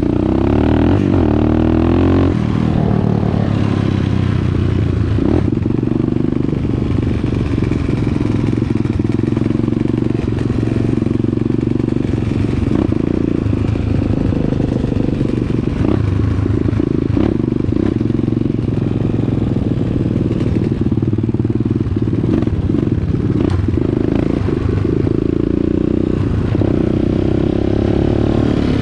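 Dirt bike engine running steadily while being ridden, with a rise and fall in revs about a second in and again near the end, and scattered knocks and clatter throughout.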